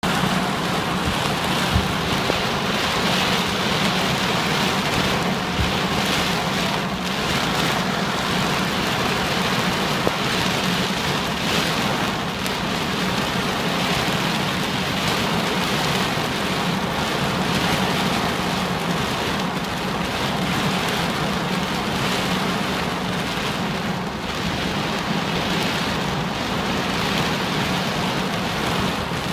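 Torrential rain beating on a car's roof and windows, heard from inside the car: a dense, steady downpour, with a few brief knocks in the first ten seconds.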